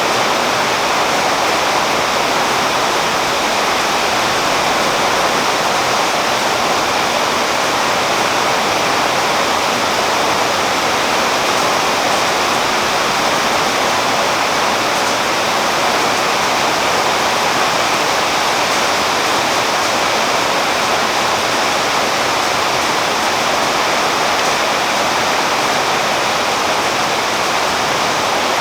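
Steady rain falling on a tree's foliage, an even, unbroken hiss.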